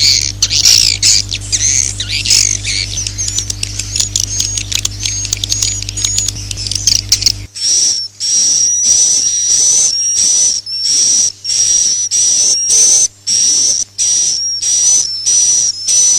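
Swiftlet 'inap' (roosting) call used as a lure for swiftlet houses: dense, high twittering chirps over a low steady hum. About seven and a half seconds in it switches abruptly to a fast, rattling twitter around a steady high whistle note, broken by a few brief gaps.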